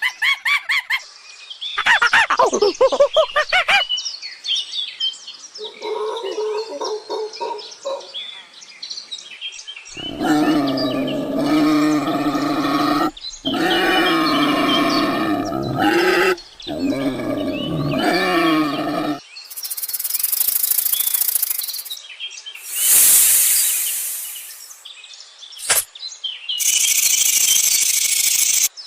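A run of different animal calls, one clip after another: quick bird chirps first, then longer pitched calls, then several short hissing bursts near the end.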